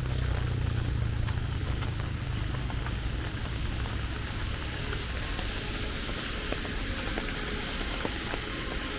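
Rain outdoors mixed with the low rumble of passing traffic, which fades over the first few seconds; a hiss like tyres on a wet road grows fuller in the second half.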